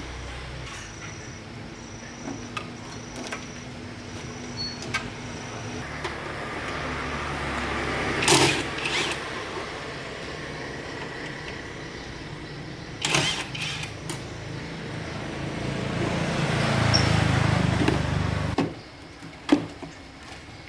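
A machine running with a steady low hum that swells twice, with sharp clicks about eight and thirteen seconds in, then cuts off suddenly near the end.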